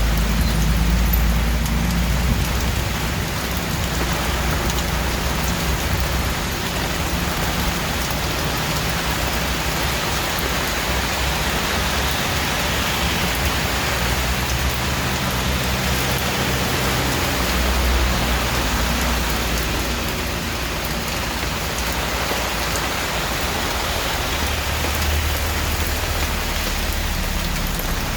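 Steady heavy rain falling on surfaces, a dense even hiss, with a low rumble underneath that swells at the start and again around 18 and 25 seconds in.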